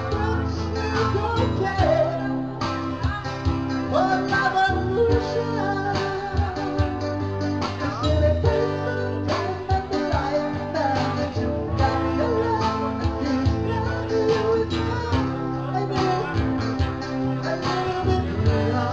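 Live music from a duo: guitar over a steady drum beat, with singing.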